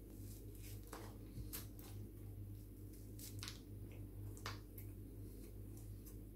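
Quiet chewing of pizza and garlic bread, with a handful of sharp mouth clicks and crackles scattered through it over a steady low hum.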